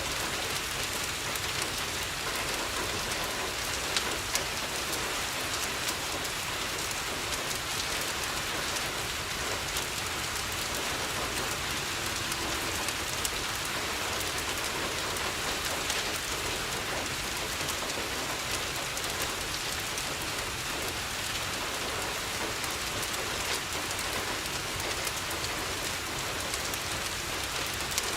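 Steady rain falling on a window, mixed with the scattered crackle and a few louder pops of a wood fire burning in a fireplace.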